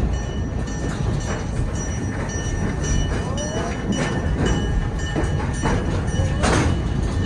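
Passenger train running along the track: a steady rumble with scattered clicks and knocks, and thin high ringing tones above it.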